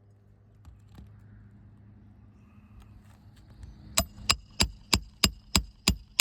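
A roofing hammer striking a roof snake to drive a roofing nail under a lifted shingle: seven sharp strikes, about three a second, each with a short metallic ring, starting about four seconds in after a couple of light taps.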